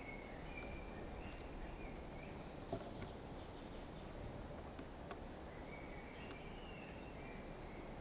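Faint, wavering bird calls over a steady outdoor hiss, with a few small sharp taps from a chaffinch moving about on the wooden feeder rail and pine cone.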